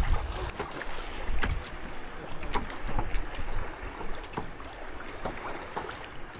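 Water lapping and splashing around a kayak, with irregular small splashes and drips from the paddle, over a low wind rumble on the microphone.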